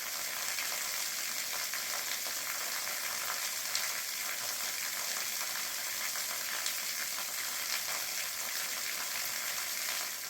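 Small waterfall splashing steadily, a constant hiss of falling water.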